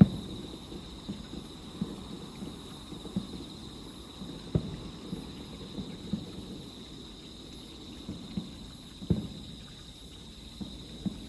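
Distant aerial fireworks bursting in a rapid finale: a string of dull booms, roughly one or two a second, the loudest right at the start and about four and a half and nine seconds in. The distance makes the bangs arrive late after the flashes.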